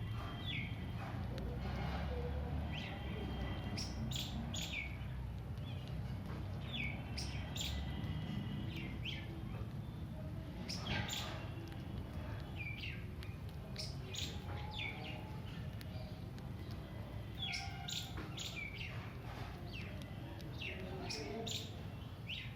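Small birds chirping: short, scattered chirps over a low steady rumble.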